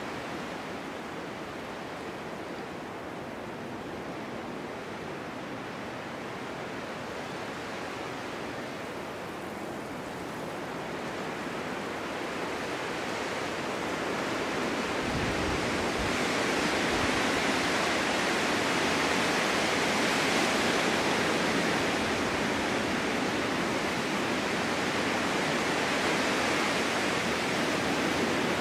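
Snowstorm wind blowing as a steady rushing noise, swelling louder about halfway through and holding there.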